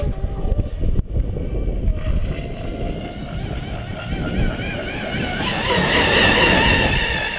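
Pro Boat Miss Geico RC race boat's brushless motor and propeller whining at full speed on 6S LiPo power, its pitch wavering as the hull skips over the water. The whine grows louder as the boat nears, loudest about six seconds in, with a low rumble of wind on the microphone under it.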